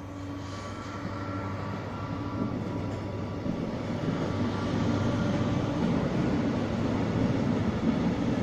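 A train running past on the nearby line. Its rumble grows louder over the first few seconds, then holds steady.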